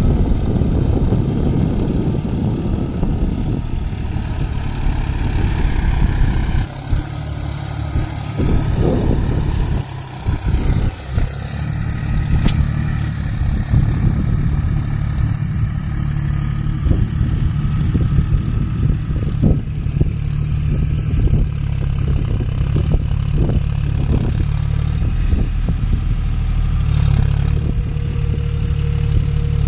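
John Deere 5050D tractor's three-cylinder diesel engine running steadily, with a few brief dips in level about a third of the way through.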